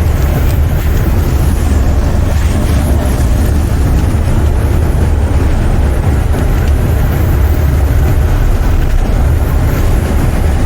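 Steady low rumble inside a semi truck's cab while driving at road speed: engine drone and road noise with a constant rush of wind noise over it.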